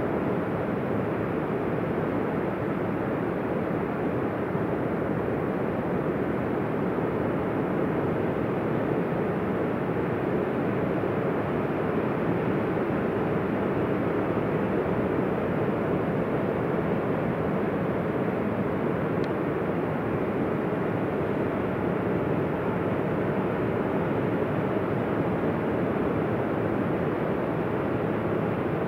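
Ocean surf breaking, heard as a steady, even wash of noise without distinct swells of single waves.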